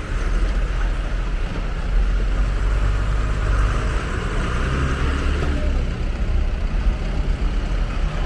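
Motor vehicle engines running with a steady low rumble, traffic at a railway level crossing.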